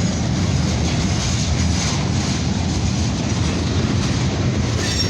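CN freight train's cars rolling past on the rails, a steady loud rumble as the train slowly gains speed.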